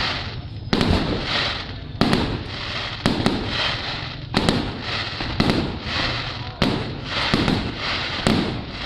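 Fireworks going off in a rapid series: about a dozen sharp bangs, roughly one a second, each trailing off into a fading rumble.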